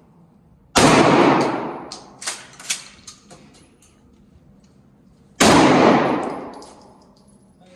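Two gunshots about four and a half seconds apart, each with a long echoing tail in an enclosed range, and a few light metallic clinks after the first.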